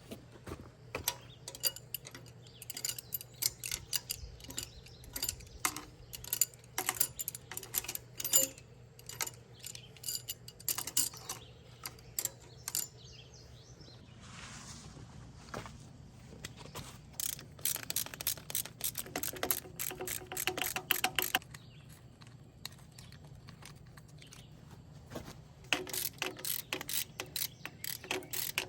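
Hand tools on an engine: a ratchet wrench clicking in quick runs among scattered metal clicks and knocks, over a steady low hum.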